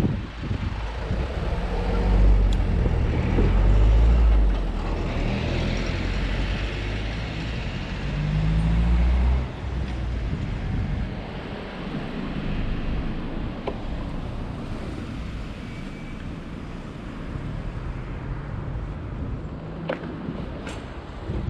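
Road traffic around a moving e-bike, with wind buffeting the microphone in heavy low gusts for about the first nine seconds, then easing to a steadier rush of traffic. A few sharp clicks near the end.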